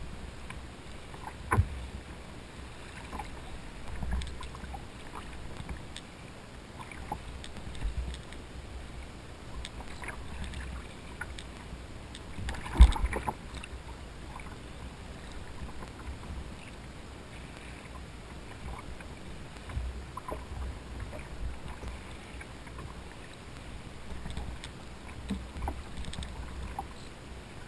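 Sounds of a kayak on the water: low thumps and scattered knocks against the hull, with one sharp, loud knock about halfway through.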